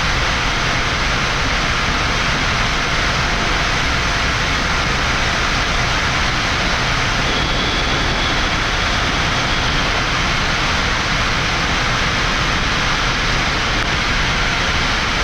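Steady rushing flight-deck noise of a Boeing 787-9 climbing after takeoff: airflow and engine noise, even and unbroken.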